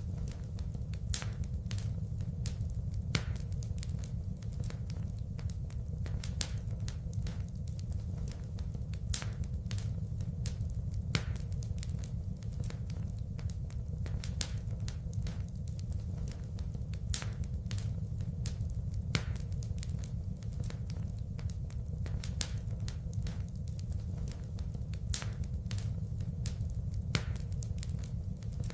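Wood fire burning in a fireplace: a steady low rumble of flame with constant crackling and sharp pops of burning wood, a few pops louder than the rest.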